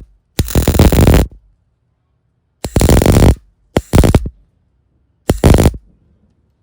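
Welding arc struck in four short tack bursts, each under a second, crackling and buzzing, with a faint hum between them. The welder is running poorly and keeps sticking.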